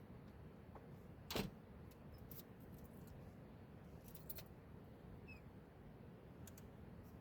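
Quiet background with a steady low hum, one short thump about a second and a half in, and a few faint ticks.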